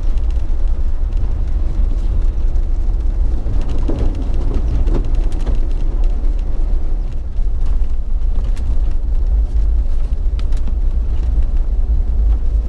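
A Jeep driving on snow- and ice-covered streets: a steady low rumble of engine and road noise.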